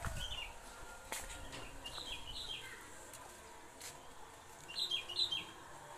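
Bird chirping: short, high chirps falling in pitch, in three small groups near the start, about two seconds in, and about five seconds in, over faint outdoor background noise.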